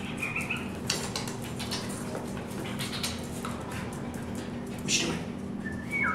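Small terrier making two brief high whines, one just after the start and a falling one near the end, amid scattered light clicks and metallic rattles.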